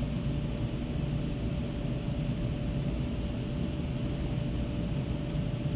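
Steady low rumble of a Dodge Grand Caravan minivan idling, heard inside the cabin, with a faint steady hum over it.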